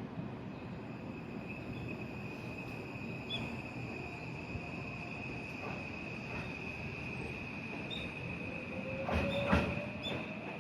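Electric train at a station platform: a steady rumble with a thin high whine throughout. Near the end the traction motor's whine starts to rise in pitch as the train gets moving, with a few sharp clicks about nine seconds in, the loudest moment.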